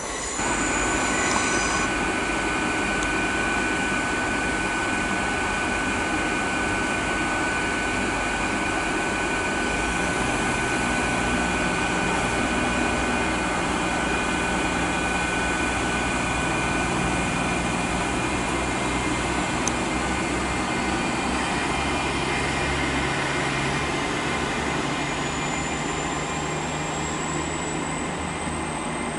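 Hitachi Intercity Express Train passing at speed: a steady rush of wheels on rail and air, with a steady whine from its traction equipment, and a high whine rising near the end.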